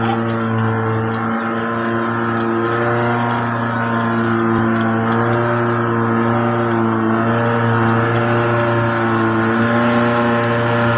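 Boat engine running steadily at a constant speed, close and loud.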